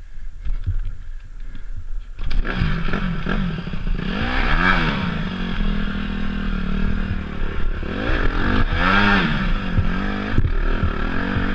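Dirt bike engine, low for about two seconds, then revving up loudly and rising and falling in pitch twice, with a few clatters.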